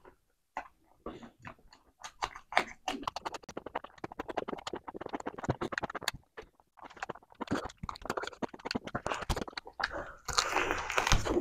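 Close-miked chewing of saucy chicken eaten by hand: wet, irregular smacks, clicks and crunching. A louder stretch of about a second near the end, as he bites into a chicken leg.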